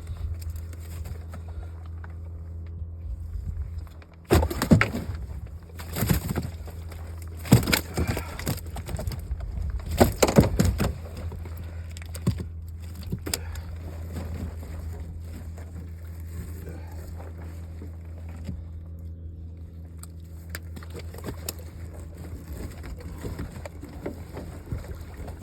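Boat motor idling with a steady low hum, with a run of loud knocks and clatters against the boat from about four to eleven seconds in.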